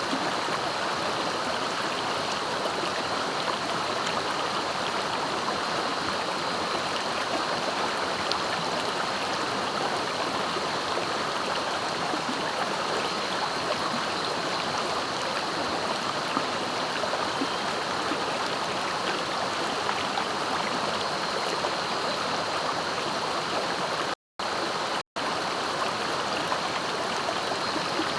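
Clear, fast-flowing river rushing steadily over its bed. Near the end the sound cuts out to silence twice, briefly.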